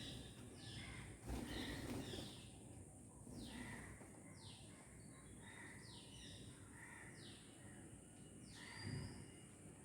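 Parrot giving short calls that fall in pitch, repeating about once a second, over a steady high hiss, with a couple of dull low rumbles about a second in and near the end.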